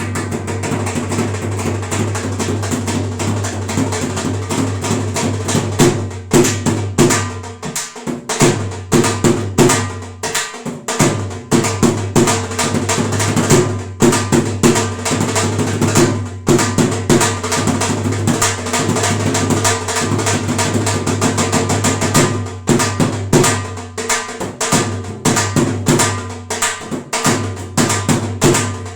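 New dhol being played in a dense, fast run of strokes over a steady low hum; the strokes grow sharper and louder about six seconds in.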